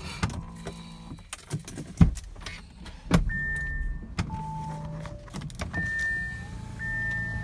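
Car sounds at close range: a run of clicks and a loud knock about two seconds in, then a steady low hum with short held electronic tones at several pitches from about three seconds on.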